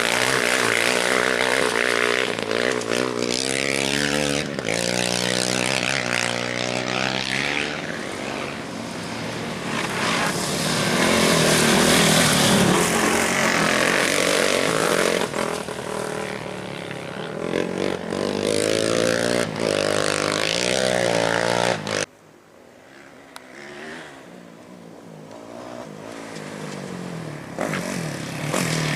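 Off-road race bikes and quads passing one after another, their engines revving and the pitch rising and falling with each pass. The sound cuts off suddenly about three quarters of the way in, then a fainter engine approaches and grows louder near the end.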